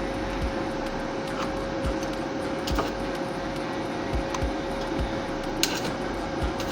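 Stick welding arc crackling steadily as a small electrode welds up a crack in a car exhaust pipe, with a steady hum underneath.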